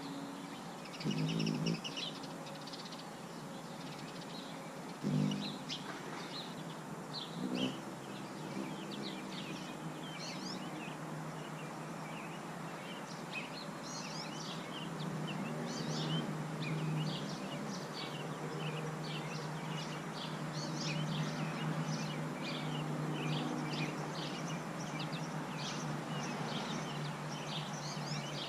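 Many birds chirping, a dense chorus of short high calls. Under it is a low hum that swells briefly a few times early on and runs steadily through the second half.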